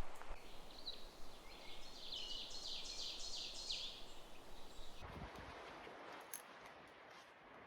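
A bird singing a run of about eight quickly repeated high notes over a quiet background of outdoor noise.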